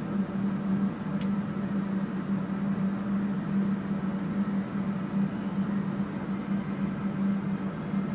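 Electric fans running with a steady hum and rush of air, with one faint click about a second in.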